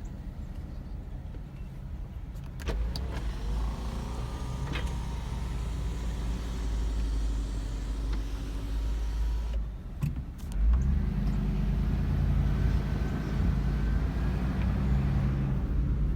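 A car driving, with a steady rumble of engine and road noise and a few short knocks. The rumble dips briefly, then grows louder about eleven seconds in.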